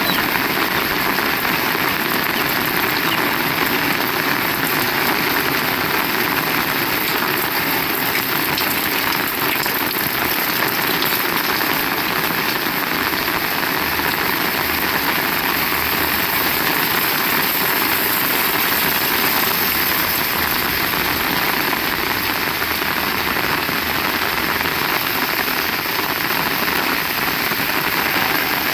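Heavy rain falling steadily, a dense even hiss of drops hitting surfaces. A low rumble sits underneath in the second half.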